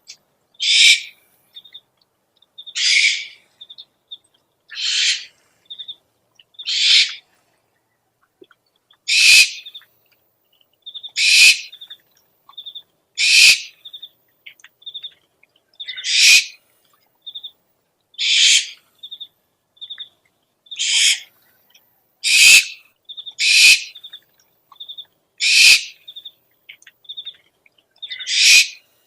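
Owl lure recording: harsh, hissing screech calls about half a second long, repeated roughly every two seconds, with short high chirps between them.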